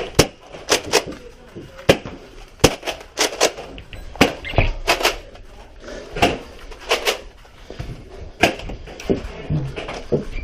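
Scattered sharp clacks and knocks of a Nerf Rival game: spring-powered blasters firing and foam balls hitting walls and doors, about one to two a second at uneven intervals.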